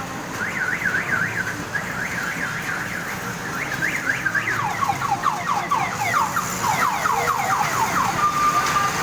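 Electronic warbling siren: a rapid up-and-down wail that changes about halfway into fast falling sweeps, about five a second.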